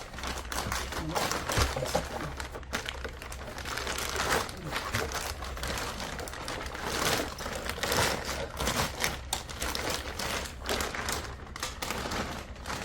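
Irregular rustling and crinkling of material being handled and pressed into place, continuing throughout with a low steady hum underneath.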